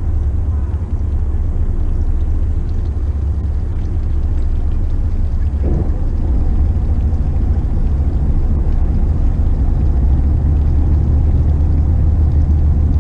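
Motor yacht's engines running, a steady low rumble that gets a little louder about six seconds in.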